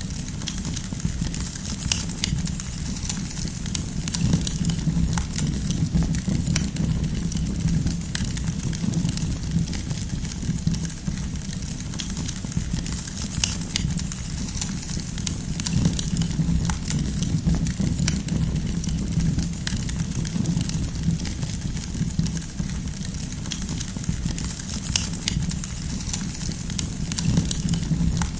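Wood campfire crackling, with frequent irregular sharp pops and snaps over a low, steady rumble.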